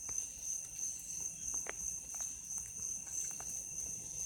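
Steady high-pitched insect trilling, likely crickets, with scattered faint clicks and taps.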